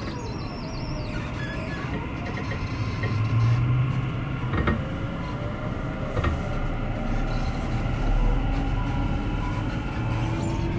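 Onboard running sound of a Tokyu 6000 series electric train: a steady rumble of wheels on rail with two sharp clicks a second and a half apart. In the second half a motor whine rises slowly in pitch.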